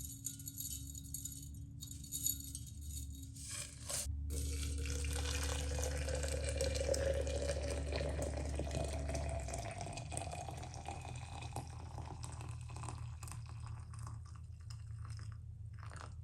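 Water running into a container, starting about four seconds in with a couple of knocks just before. Its tone rises slowly as the container fills, then the flow eases off.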